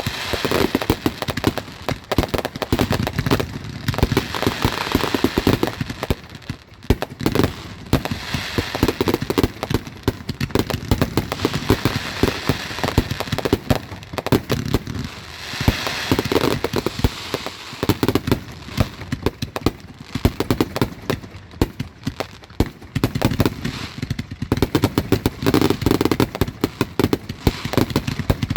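Fireworks going off in rapid, continuous volleys of bangs and crackling, swelling and easing in waves every few seconds.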